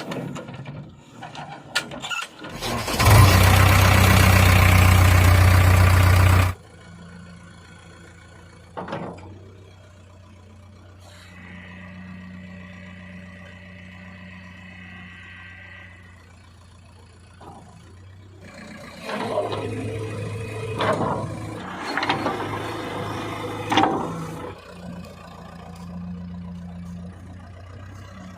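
Diesel engine of a backhoe loader or tractor: very loud for about three seconds near the start, then cutting back abruptly to a steady low idle, with a thin whine a little later and uneven bursts of revving in the second half.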